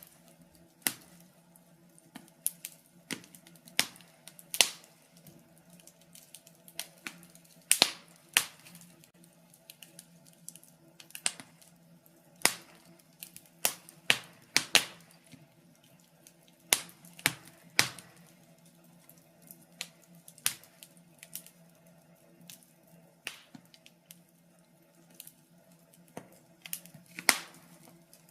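Wood fire crackling in a fireplace: irregular sharp pops and snaps, several a second at times, over a faint steady low hum.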